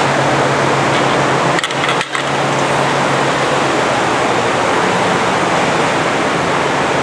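Forrest Model 236 bandsaw running steadily, its 5/8-inch scallop-edge blade at 3000 feet per minute giving a steady whir over a low hum. The sound briefly dips twice about two seconds in.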